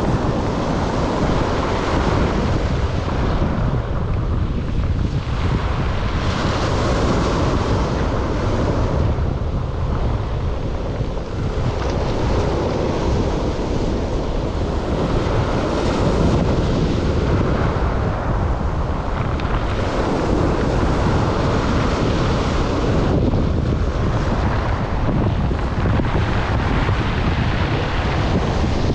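Black Sea waves breaking on the shore, the surf swelling and falling back every few seconds, with wind buffeting the microphone in a steady low rumble.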